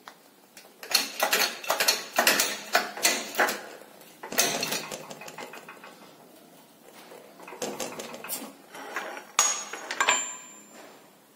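Clusters of sharp metallic clinks and knocks as steel sockets and tools are handled against the steel control arm while a new ball joint is pressed into the lower control arm.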